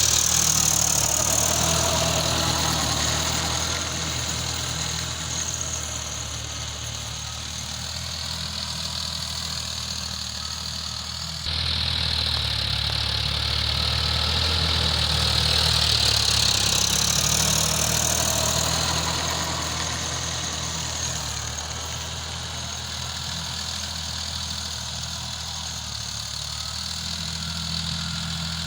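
Sonalika RX 50 tractor's diesel engine running steadily at a low, even speed, with an abrupt change in the sound about eleven seconds in.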